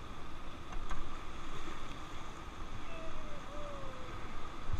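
Steady rushing of river water, with wind on the microphone.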